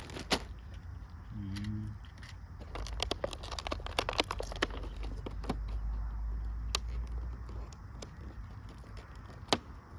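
Plastic snack packaging crinkling and rustling as it is handled, with many irregular small clicks and crackles.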